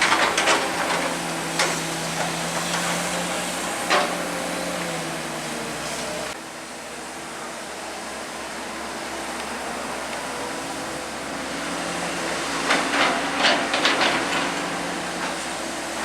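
Excavator engine running steadily, with sharp metallic knocks near the start, at about 1.5 and 4 s, and a quick run of knocks around 13 s from the working machine.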